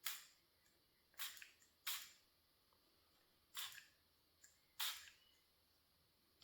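Five short spritzes from a tiny pump spray bottle of acrylic ink, each a quick hiss that dies away fast, spaced irregularly about one to two seconds apart.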